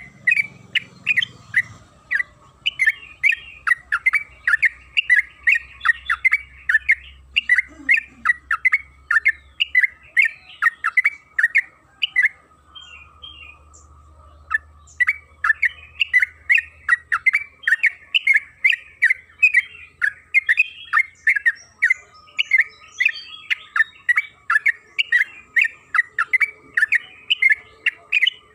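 Yellow-vented bulbul (trucukan) singing in long runs of rapid, bubbling chattering notes, about three a second, with a short break about halfway through.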